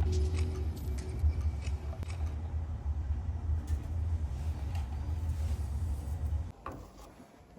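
A steady low rumble with a few faint clicks over it, cutting off suddenly about six and a half seconds in.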